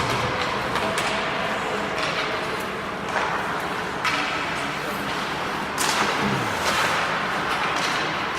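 Ice hockey game ambience in an arena: sharp knocks and scrapes of sticks, puck and skates, about one a second, over steady crowd chatter.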